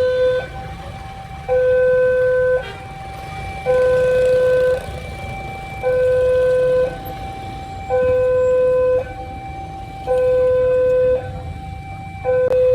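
Railway level-crossing warning alarm sounding a repeating two-tone signal, a louder low tone and a higher tone alternating about every second, which signals that a train is approaching and the crossing is closing. A low rumble of road traffic runs underneath.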